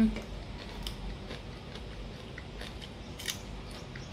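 Crisp crunching of a raw spring onion stalk being bitten and chewed, short crunches scattered through, with a louder bite right at the start.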